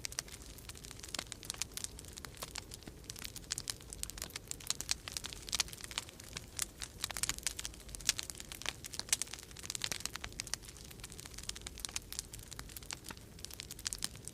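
Wood fire crackling in a fireplace: irregular snaps and pops, several a second, over a low steady rumble.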